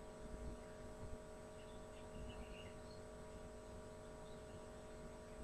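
Faint room tone: a steady electrical hum with a few soft, brief rustles.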